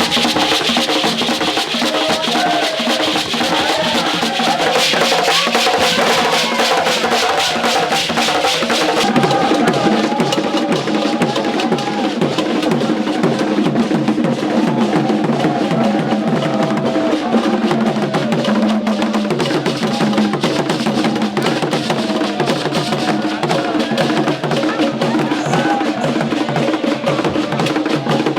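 Traditional festival drumming: several drums and a struck wood-block-like percussion keeping a fast, dense, even beat. The highest clatter softens about nine seconds in.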